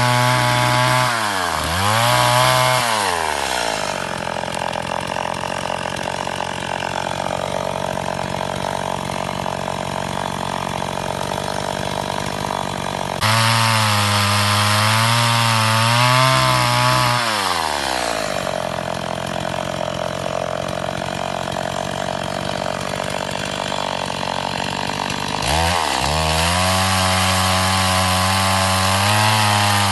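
Stihl MS 170 two-stroke chainsaw running at high revs. Its pitch drops sharply as it bites into the wood, then carries on cutting with a lower, rougher note. The pattern repeats in several abruptly joined stretches.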